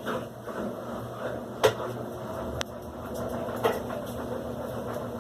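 Electrolux LAC16 top-loading washing machine in its spin cycle on the silent setting: a steady motor hum, with three sharp clicks or knocks partway through. The motor runs at a lower speed to keep it quiet, a weak spin that leaves the clothes dripping wet.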